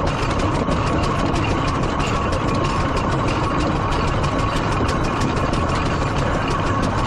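Steam traction engine under way on the road, its gearing and motion clattering in rapid, even clicks over a steady low rumble.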